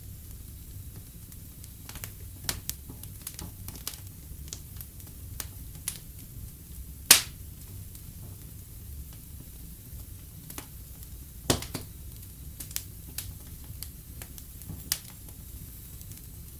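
Fire in a fireplace crackling, with a low steady rumble under scattered sharp pops; the loudest pop comes about seven seconds in and another strong one a few seconds later.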